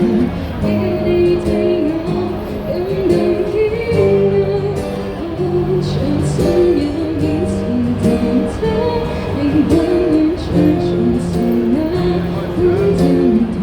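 Live busking band performance: a singer, tagged as female, over strummed guitar, played through a street amplifier.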